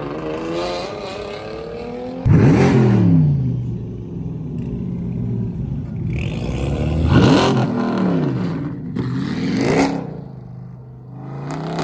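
Car engines revving, their pitch climbing and falling several times. A loud rev starts suddenly about two seconds in, and more revs follow later on.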